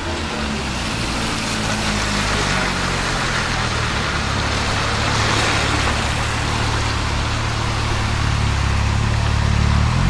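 Porsche 997 Turbo's twin-turbo flat-six with a Soul competition exhaust, idling at a steady, unchanging pitch with a broad hiss over the exhaust note.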